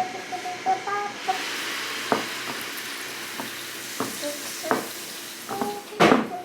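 Seasoned chicken being stirred with a utensil in a frying pan: a steady sizzle sets in about a second in, broken by several clinks and scrapes of the utensil against the pan, the loudest one near the end.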